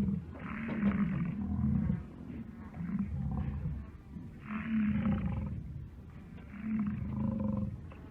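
A large animal's low calls, four of them about a second long each, repeated every couple of seconds.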